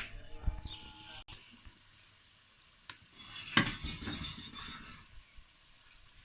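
A metal spoon clinking and scraping in a karahi as chicken is stirred while it fries. A louder stretch of sizzling and scraping comes between about three and five seconds in.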